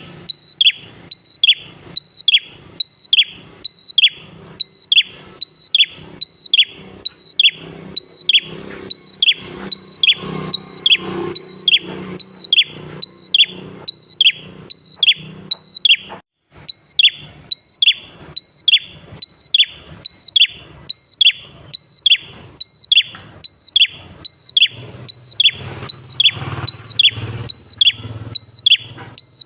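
Prenjak klawu calling in a steady run of sharp, high notes, about two a second, each one held and then dropping in pitch at its end, with one brief break about halfway through. This is a continuous chattering (gacor) call of the kind used to provoke other prenjak birds into calling.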